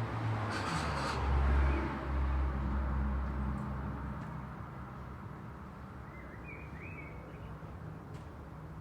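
Road traffic: a vehicle passes with a deep rumble that fades away over the first few seconds, leaving a quieter steady traffic hum. A bird chirps briefly, twice, about two-thirds of the way through.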